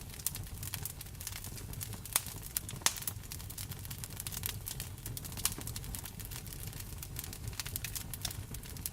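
Wood fire crackling in a fireplace, with frequent sharp pops, the loudest about two and three seconds in, over a low steady rumble.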